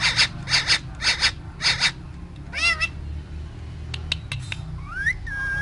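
Pakistani ringneck parrot calling in its cage: a quick run of four short pitched calls in the first two seconds, another a moment later, a few sharp clicks, then a rising whistle near the end.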